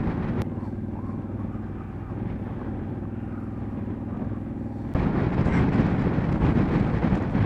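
Motorcycle engine running steadily at low revs, then about five seconds in it gets suddenly louder as the bike pulls away.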